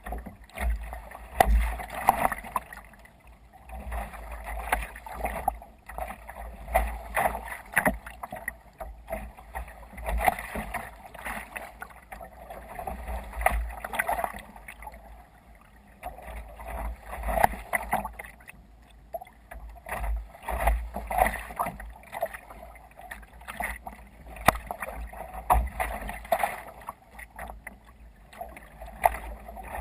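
Water splashing and sloshing around a sea kayak under way in waves, in irregular surges every couple of seconds, with low wind rumble on the microphone.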